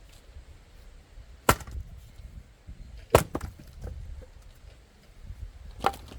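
Axe splitting firewood: three sharp chopping strikes a second or two apart, the middle one loudest and followed by a few small knocks of wood pieces.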